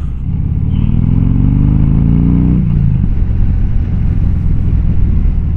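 Motorcycle engine accelerating, its pitch rising for about two and a half seconds. The throttle then closes and the exhaust pops and crackles on the overrun, which is nice to hear.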